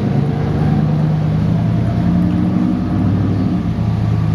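Train engine running with a steady low drone of several held tones, loud through the middle and easing slightly near the end.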